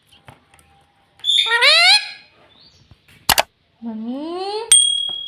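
Indian ringneck parrot calling: a rising squawk-like call about a second in, then a rising 'mummy' in its mimicking voice near the end. A sharp click falls between the two calls, and a thin steady high whistle tone starts near the end.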